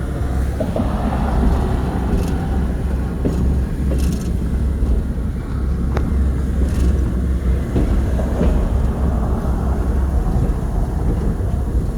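Train rolling along the track, heard from an open caboose: a steady low rumble and rattle, with a few sharp clicks.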